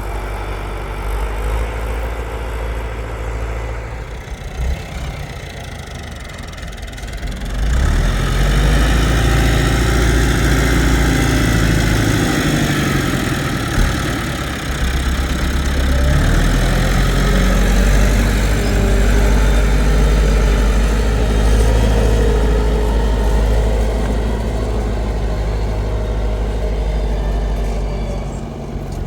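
Tractor engine running. About eight seconds in it picks up and runs louder, its pitch rising and falling, then drops back near the end.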